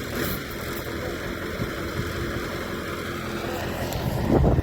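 Kirovets tractor's large diesel engine running steadily under load while trying to tow a stuck K-701, with a louder swell just before the end.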